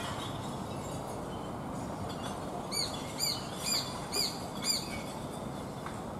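Japanese sparrowhawk calling: a quick series of five short, sharp notes about half a second apart in the middle, over steady low background noise.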